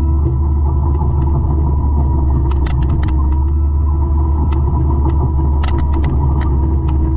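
A 200-horsepower forestry mulcher running steadily with a loud, deep drone. Two clusters of sharp cracks and ticks come through it, about a third of the way in and again past two-thirds.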